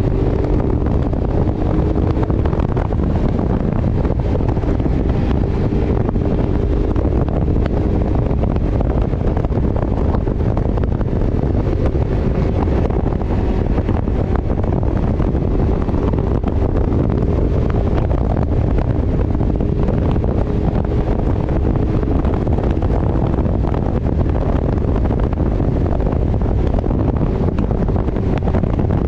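Wind buffeting the microphone of a moving motorcycle, a steady low rush with the engine running faintly underneath.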